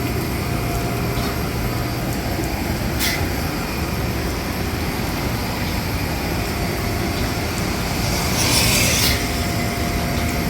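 Steady drone of machinery on an aircraft ramp during hydraulic servicing. A short hiss comes about three seconds in, and a louder hiss lasting about a second comes near the end.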